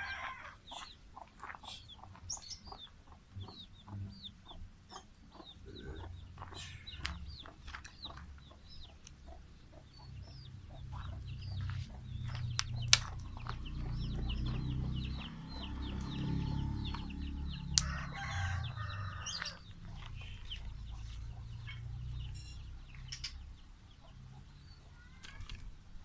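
Birds calling in short chirps and harsh clucking notes, with scattered clicks and a low rumble through the middle, and two sharp knocks.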